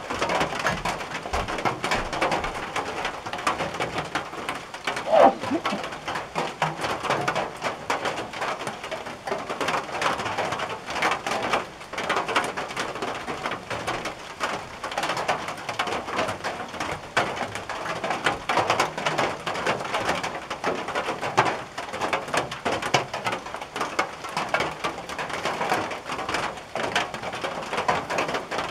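Rain falling on a tin roof: a dense, uneven patter of drops striking the metal. About five seconds in there is one louder, briefly pitched sound.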